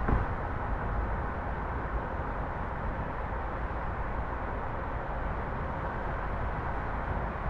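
Steady road noise of a car driving at speed: a low tyre and engine rumble with a hiss of air. A single brief thump comes right at the start.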